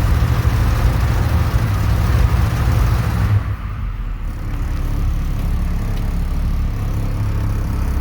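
Big nine-liter diesel truck engine running cold after a cold start, at a raised speed at first, then dropping back to a lower, steady idle about three seconds in.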